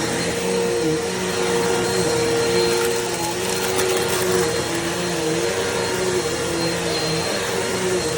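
Eureka NEU350 upright vacuum cleaner running steadily, a motor hum with a rushing airflow; its pitch sags slightly now and then.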